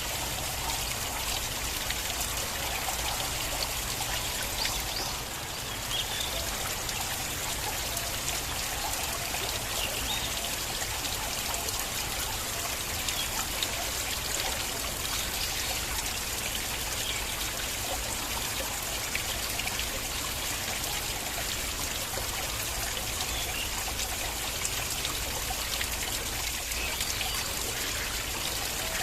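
Shallow stream flowing and trickling steadily over stones, with small splashes sparkling through, and a slight brief dip in level about five seconds in.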